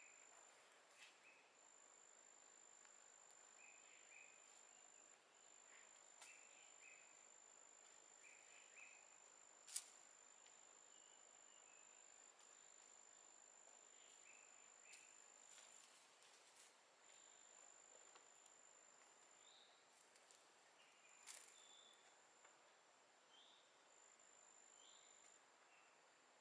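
Faint wild outdoor ambience: an insect's steady high trill that stops and starts, with short chirps repeating around it. A sharp click sounds about ten seconds in, with a weaker one about twenty-one seconds in.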